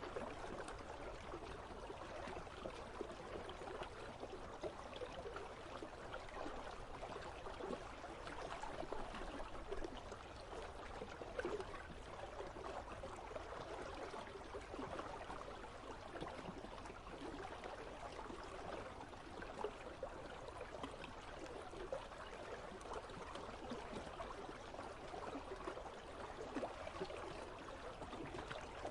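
Icy river flowing and trickling steadily.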